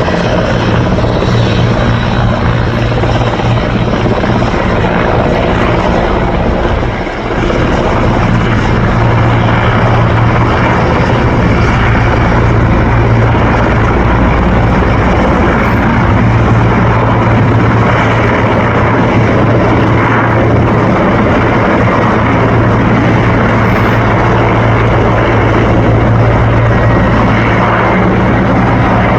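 Mil Mi-17 helicopter's main rotor and twin turboshaft engines running loud and steady, with a deep low throb under a broad rushing noise and a brief dip in loudness about seven seconds in.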